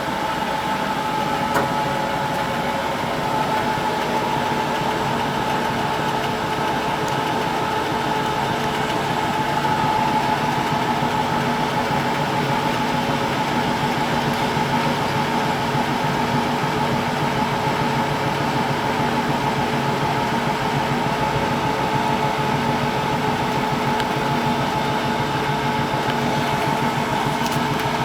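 1974 Zoppas Superautomatic 242 washing machine spinning its drum at a steady speed, the motor giving a constant hum with steady whining tones. It gets slightly louder about ten seconds in.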